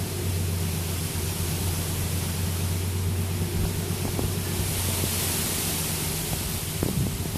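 Wind-driven rain hissing steadily as the wind gusts, the rain swelling heavier about halfway through, over a continuous low rumble.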